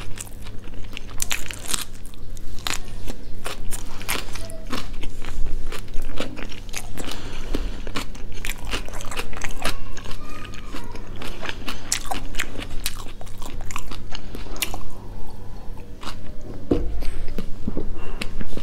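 Close-miked chewing of a mouthful of chicken burger: a dense run of small crunching and wet mouth clicks.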